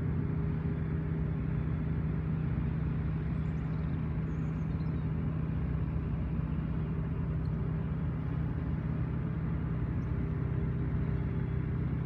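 Steady low hum of an engine running at a constant speed, with a few faint bird chirps a few seconds in.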